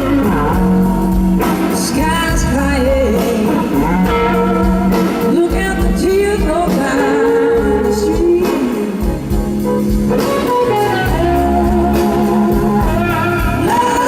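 Live blues band playing a slow blues, with an electric guitar leading in gliding, bending notes over the band.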